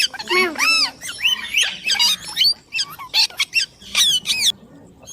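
Indian ringneck parakeet calling: a fast string of short, shrill squawks and chirps that sweep up and down in pitch, breaking off shortly before the end.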